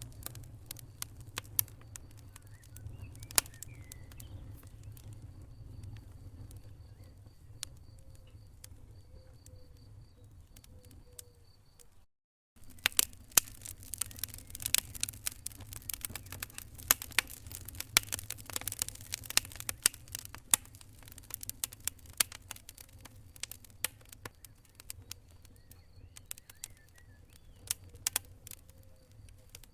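Wood fire in a fireplace crackling and popping, with sharp irregular snaps over a low steady rumble of the flames. The sound drops out completely for a moment about twelve seconds in, and the crackling comes back denser and louder for several seconds after.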